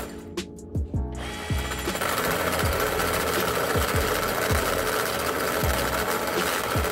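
Bosch GBH18V-26 cordless SDS-plus rotary hammer running a hole cutter down into a steel beam, a steady motor-and-cutting drone that drops off for about the first second and then runs on. Background music with a low, falling beat plays underneath.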